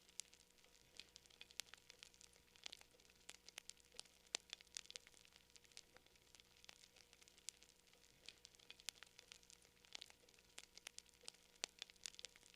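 Wood campfire crackling: irregular sharp pops and snaps, several a second, some louder than others, over a faint steady hum.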